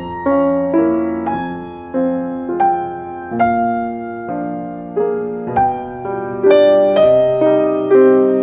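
Slow, soft piano music: chords struck roughly every half second to a second, each left to ring and fade.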